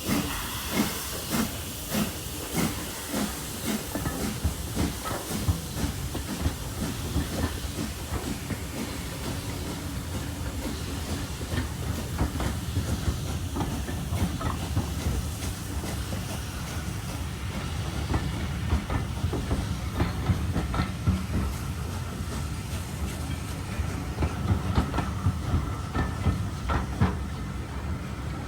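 Heritage steam train running, its wheels clattering over the rail joints over a steady low rumble, with steam hissing in the first few seconds.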